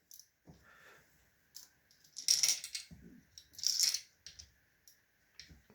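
Small loose plastic Lego bricks clattering as the load is tipped out of a Lego toy truck, in two main rattling bursts a little over a second apart with a few small clicks around them.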